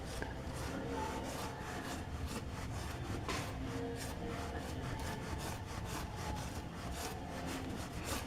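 Gypsum decorative stone being sanded by hand with a fine abrasive sanding mesh: repeated back-and-forth scraping strokes, several a second.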